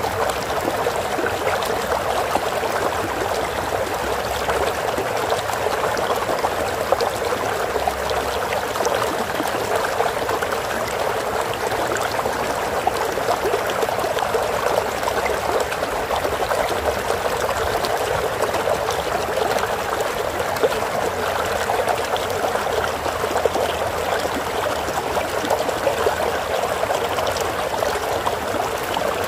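Flowing water: a stream running and trickling steadily, an even rushing splash with fine droplet ticks.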